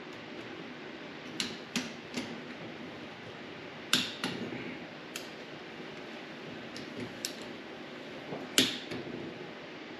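Sharp metal clicks and taps from hand tools on engine crankcase bolts, coming singly at irregular intervals, with a louder click about four seconds in and another near the end, as the case-half bolts are tightened.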